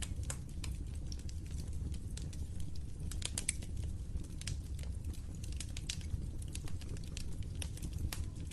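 Wood fire crackling: irregular sharp pops and snaps over a steady low rumble, with a quick run of louder pops about three and a half seconds in.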